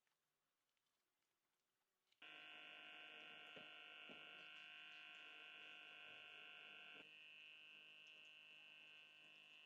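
An electric appliance switches on about two seconds in and runs with a faint, steady electrical hum of several high tones, which dips slightly in level a few seconds later; two faint ticks come during it.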